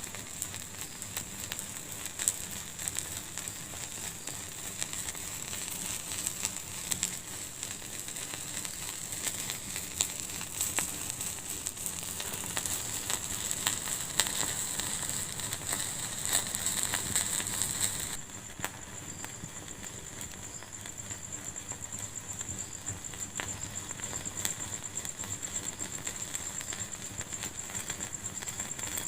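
Fire in a fireplace crackling, with frequent sharp pops over a steady hiss. About two-thirds of the way through the sound changes abruptly to a quieter, softer crackle.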